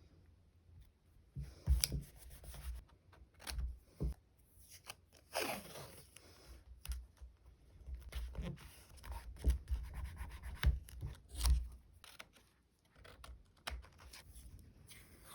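Hands handling stickers and plastic sleeves: scattered rustling, rubbing and light taps, with a longer rustle about five seconds in.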